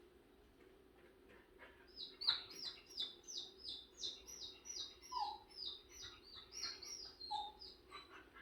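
A bird singing a rapid series of short, high, downslurred chirps, about two or three a second, starting about two seconds in and running for nearly six seconds. Two short lower notes come in partway through and near the end.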